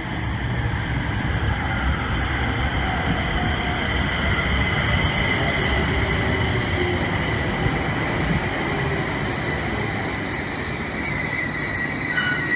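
JR East 701 series electric local train running by on the rails with a steady rumble and a high held tone. Thin, high wheel squeals set in over the last couple of seconds.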